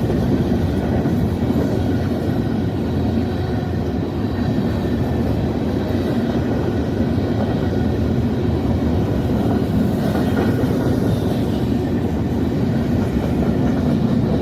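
A CSX freight grain train of covered hopper cars rolling past, with a steady, unbroken rumble of wheels on the rails.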